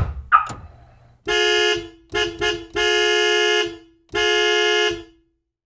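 Two sharp knocks, then a car horn honking five times: a short honk, two quick toots, then two long blasts.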